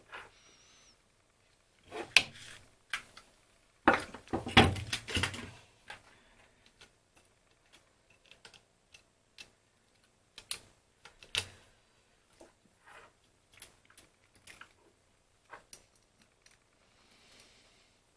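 Light plastic clicks, taps and rattles from handling a BeoCom 2 cordless phone's housing and keypad. The loudest cluster of knocks comes about four to five and a half seconds in, then scattered single clicks like key presses.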